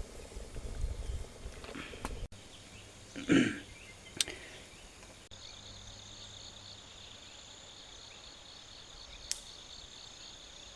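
Insects trilling steadily in a high, finely pulsing drone through the second half. Before that comes a short loud call or cry, then a couple of sharp clicks.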